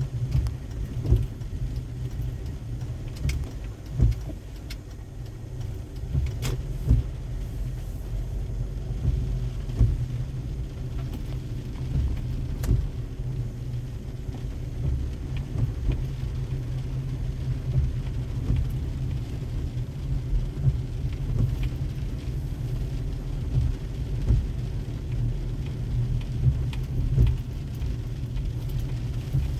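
Car driving in the rain: a steady low road and engine rumble, with scattered sharp ticks and knocks.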